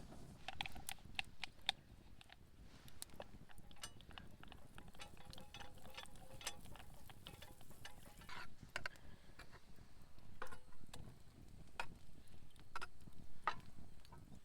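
Scattered sharp clicks and light knocks at an irregular pace.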